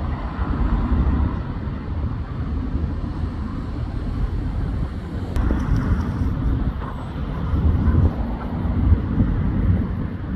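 Road traffic passing: a continuous low rumble of engines and tyres that swells as vehicles go by, louder about a second in and again near the end.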